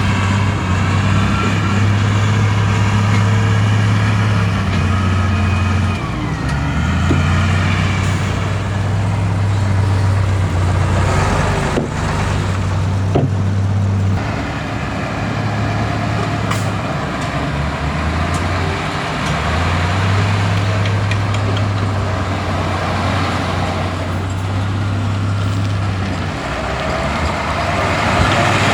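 Bulldozer's diesel engine working under changing load, its deep note dropping and picking up again every few seconds. A high wavering squeal runs over it, and there is a single clank about twelve seconds in.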